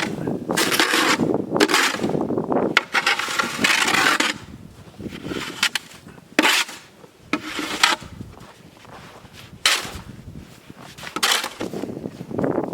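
Irregular scraping and rubbing strokes, with a few sharp knocks in between.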